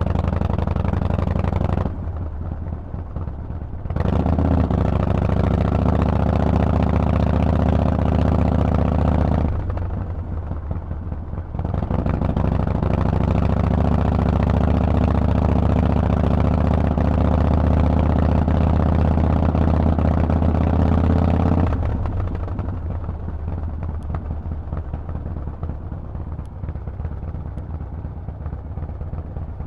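Harley-Davidson Forty-Eight's air-cooled V-twin running through a Vance and Hines exhaust on the move, holding a steady note. The engine sound drops away twice for about two seconds, about two and ten seconds in. From about twenty-two seconds in it settles to a lower, quieter running sound.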